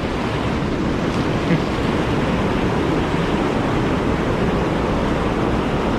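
Steady rush of whitewater churning through a river hole and pour-over.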